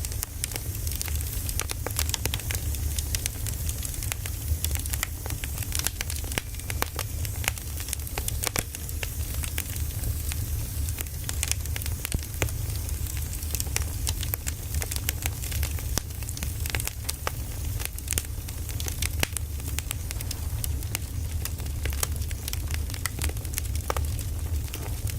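Firewood burning: wood crackling and popping in irregular, frequent snaps over a steady low rumble of the flames.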